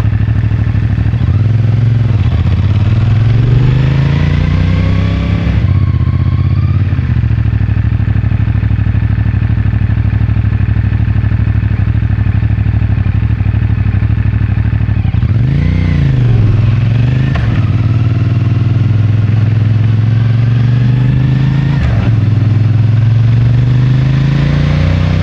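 CFMoto 450MT's parallel-twin engine through the stock exhaust, riding in traffic. Engine speed climbs through a couple of upshifts, holds a steady cruise, rises and falls twice in quick succession about two-thirds in, then drops and climbs again under acceleration near the end.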